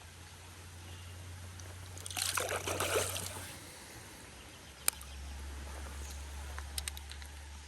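Creek water splashing and sloshing for about a second, starting about two seconds in, over a steady background of running water, then a single sharp click near the five-second mark.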